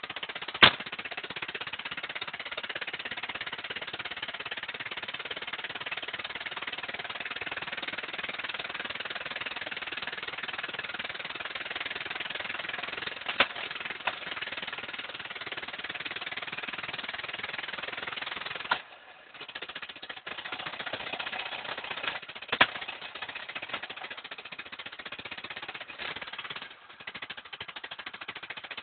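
Volvo 240 engine running rough and shaking after a cold start, with three sharp clicks and the sound dropping out briefly about two-thirds of the way through, as if the engine stumbles. The rough running is what the owner suspects comes from a damaged spark plug.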